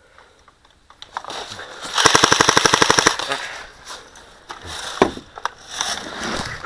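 Airsoft rifle firing one full-auto burst of about a second, rapid even shots, about two seconds in. A single sharp click follows a couple of seconds later.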